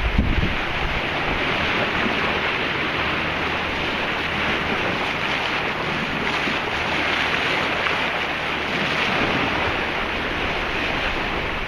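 Steady rush of sea water and wind around a sailboat underway, with wind buffeting the microphone at the start.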